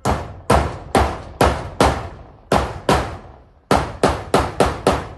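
Hammer blows while zinc roofing sheets are being fixed on: about a dozen sharp strikes, two to three a second, with a short pause after the fifth and after the seventh, each ringing briefly.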